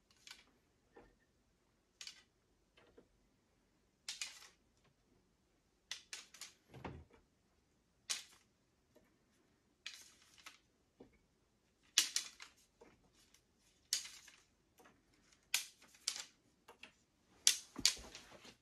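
Sharp, irregular clicks and taps of hand work on cedar arrow shafts at a workbench, coming every second or two, with a duller knock about seven seconds in and another near the end.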